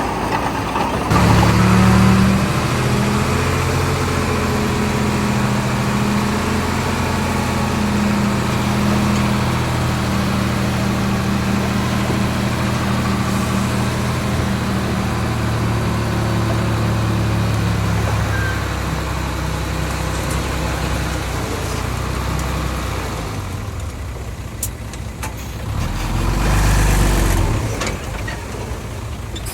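Heavy earthmoving machinery's diesel engine running with a steady low drone. It eases off a little past halfway, then swells briefly once more near the end.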